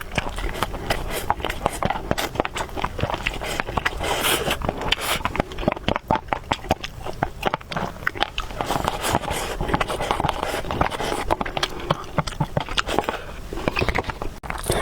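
A person chewing food close to the microphone: wet, smacking mouth noises made of dense, rapid clicks.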